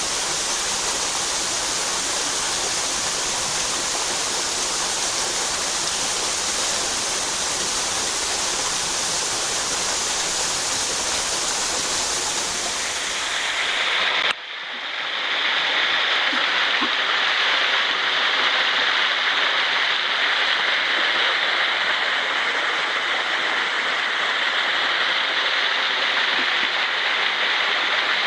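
Mountain headwater stream rushing steadily over rocks. About halfway through, the sound cuts abruptly to a different stretch of water, with a narrower, higher rush and less low rumble.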